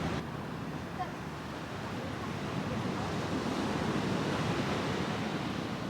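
Sea waves washing onto the shore in a steady rush, with wind on the microphone.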